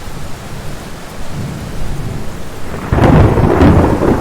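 Steady heavy rain; about three seconds in, a loud thunderclap breaks in and rolls on as a low rumble.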